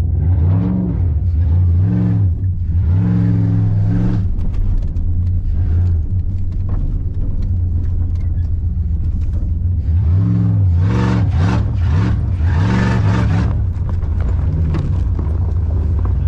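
Pickup truck engine running while the truck is driven slowly, the revs rising and falling in several short swells near the start and again in the second half. The engine is still cold.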